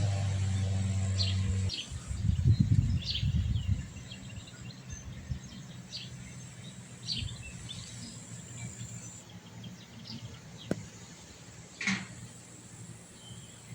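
Small songbirds chirping in short, scattered calls. A steady low hum runs for the first couple of seconds, then wind buffets the microphone in a loud rumble for about two seconds.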